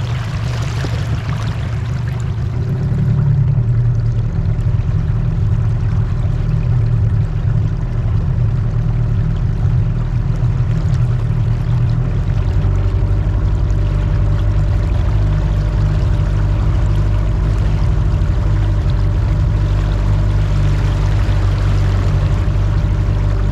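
Boat motor running steadily with water rushing past the hull; the engine note shifts about halfway through.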